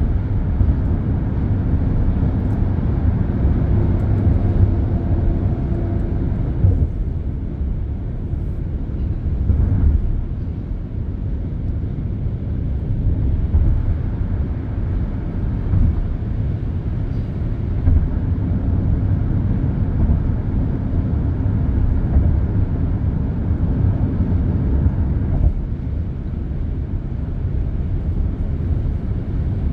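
Steady expressway traffic: a continuous low rumble of tyres and engines from many passing vehicles, swelling and easing as they go by, with a passing vehicle's whine about three to six seconds in.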